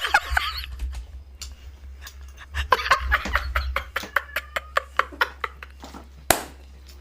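Close mouth sounds of someone eating in a mukbang: rapid wet chewing and lip-smacking clicks, with a short murmur of speech partway through and one sharp louder click near the end.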